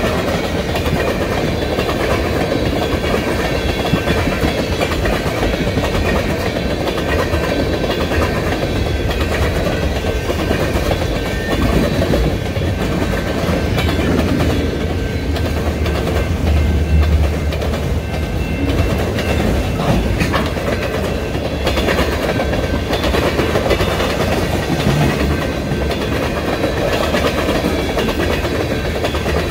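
Freight cars of a mixed freight train, tank cars and an autorack, rolling past close by. Their steel wheels give a steady rumble on the rails with a rhythmic clickety-clack.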